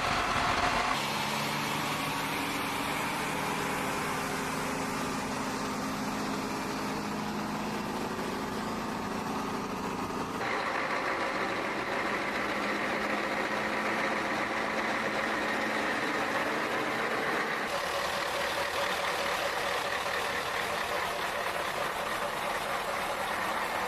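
Heavy truck engines running steadily. The sound changes abruptly about ten and eighteen seconds in, as the footage cuts between clips.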